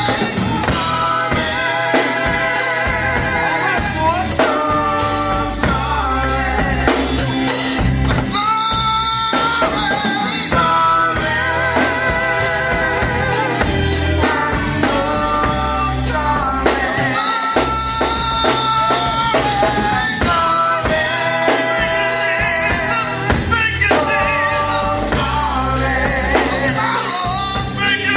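Gospel quartet music: voices singing long, wavering held notes over a backing band with drums.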